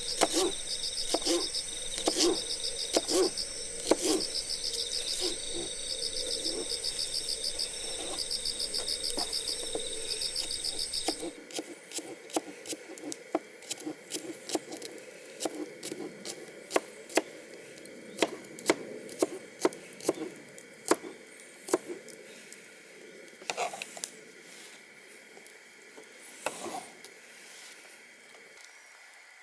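Campfire wood crackling and popping in sharp, irregular clicks. For about the first eleven seconds a high, pulsed chirping of insects runs over it, then cuts off suddenly.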